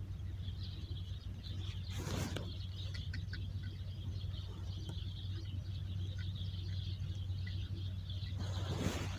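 Faint, scattered bird chirps over a steady low hum, with two brief rustling swishes, about two seconds in and near the end.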